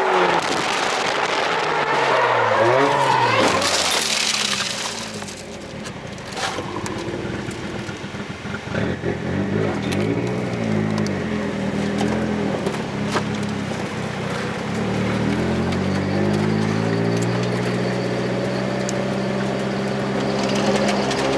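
Drift car's engine revving with tyres squealing and skidding. After about five seconds the sound drops away, with a few sharp knocks, and the engine then settles into a steady note through the second half.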